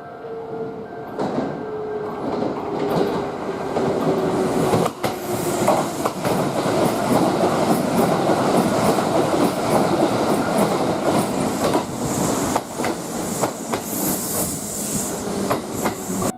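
Kintetsu limited express electric train passing through a station at speed without stopping. Its wheels clatter over the rail joints with a rapid run of clicks. The sound builds over the first few seconds and stays loud until it cuts off suddenly.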